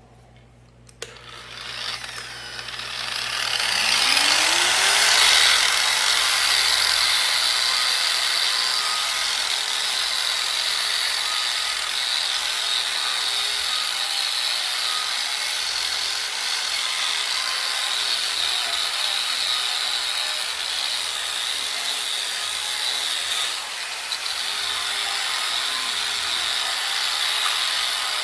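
Power tool spinning up with a rising whine, then a wheel grinding steadily against a steel bicycle frame with a loud, even scraping hiss, briefly easing off about three quarters of the way through.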